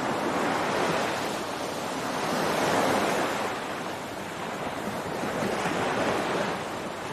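Ocean surf on a beach: a steady rush of breaking waves that swells and eases every few seconds, with some wind noise on the microphone.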